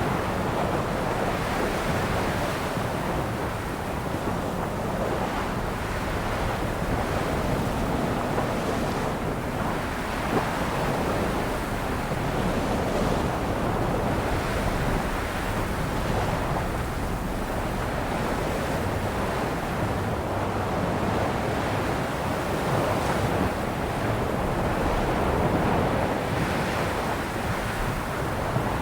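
Sea waves breaking and washing on a shore in a continuous surf wash that swells and eases every few seconds.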